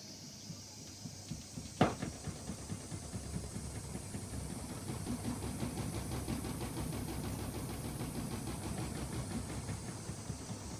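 AEG Öko-Lavamat front-loading washing machine: a sharp click about two seconds in, then the drum turning with a quick run of small knocks, over a faint motor whine that rises and later falls away.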